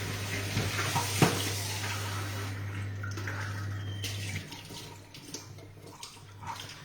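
Water running, as from a tap into a sink, with a few light clinks, easing off after about two and a half seconds; a steady low hum stops about four seconds in.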